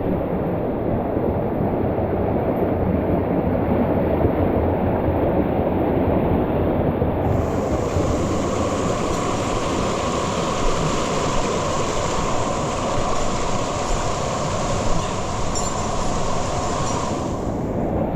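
Waterfall water rushing steadily. About seven seconds in a brighter, hissier layer joins, and it drops away again about a second before the end.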